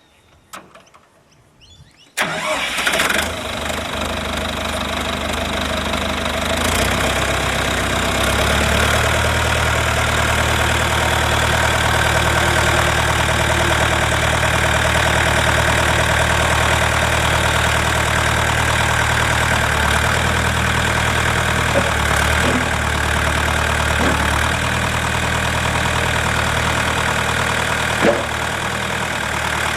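Diesel engine of a 35/40 hp Australis tractor firing up about two seconds in after a few faint clicks, then running steadily. Its speed steps up about seven seconds in.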